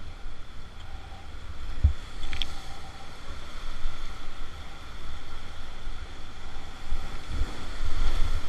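Rushing white water of river rapids as a steady noisy hiss, with wind buffeting the microphone in a few low thumps.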